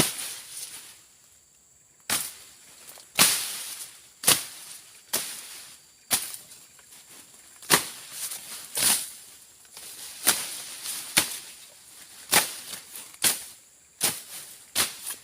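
Blade strokes slashing through brush and grass, a sharp swishing chop about once a second, about a dozen in all, after a short pause at the start.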